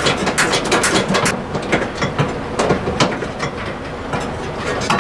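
Socket wrench driving small screws under a truck dashboard: rapid, irregular clicking and metal clatter, densest in the first second or so and thinning out afterwards, over a steady low hum.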